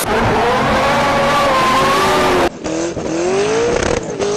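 Car engines at high revs, heard in two spliced clips. First comes a loud run with a wavering pitch over heavy noise. After a sudden cut about two and a half seconds in, an engine rises in pitch again and again as it accelerates.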